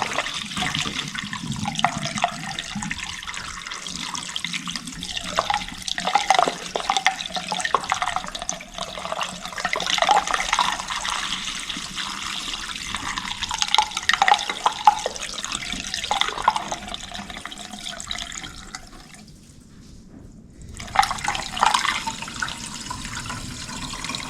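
Distilled water being poured from a jug into a car's cooling system, gurgling and splashing steadily. The pouring stops for a second or two about three-quarters of the way through, then starts again.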